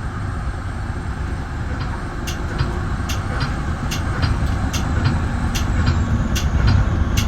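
Metra bi-level commuter train running at speed, heard from inside the front cab car: a steady low rumble. From about two seconds in, sharp clicks come in pairs about every 0.8 s.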